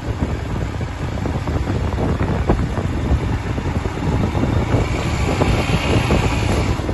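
Royal Enfield Himalayan's 411 cc single-cylinder engine running at a steady low road speed, its throttle held by a cruise-control throttle lock. Wind buffets the microphone throughout.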